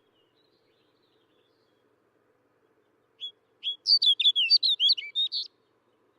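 Snow bunting singing one short, fast warbling phrase of quick sliding whistled notes, starting about halfway through and lasting about two seconds.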